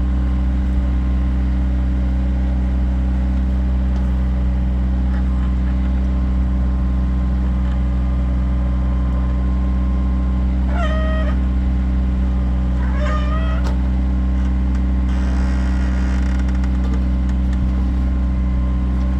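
Kioti tractor's diesel engine running steadily at constant speed. Two short high-pitched sounds cut through, about eleven and thirteen seconds in.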